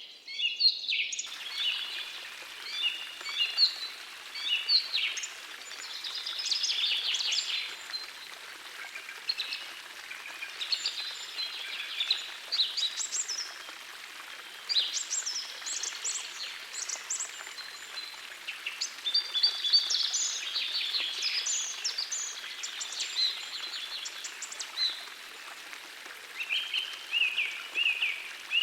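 Several birds singing, a dense mix of chirps and trills, over the steady rush of a forest stream. The sound drops out briefly in the first second.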